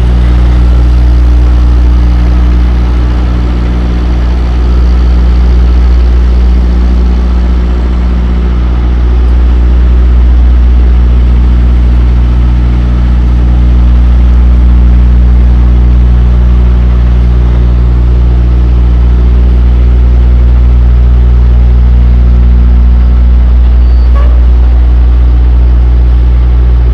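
Semi truck's diesel engine idling steadily, a low, even hum.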